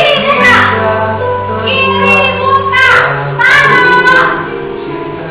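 A child's singing voice over backing music, in sung phrases that slide in pitch.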